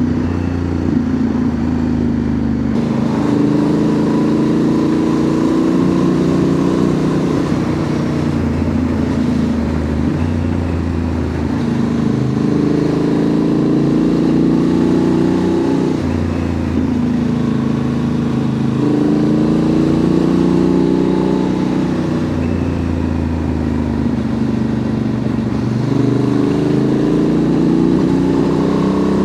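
2025 Honda Transalp's 755 cc parallel-twin engine running through a Dominator MX2 slip-on exhaust while riding. The engine note climbs in pitch and drops back again and again as the bike accelerates. The note sounds a little aggressive.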